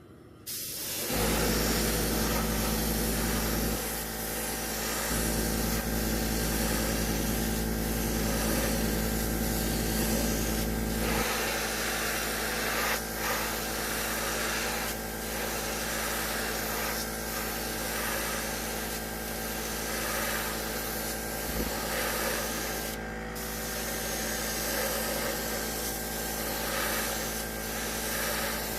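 Airbrush spraying in short passes, a hiss that swells and eases every second or two, over a steady low hum that comes on about a second in.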